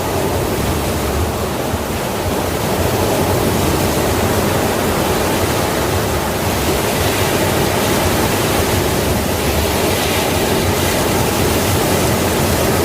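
Sea waves washing on a shore: a continuous rush of surf that grows a little louder about three seconds in.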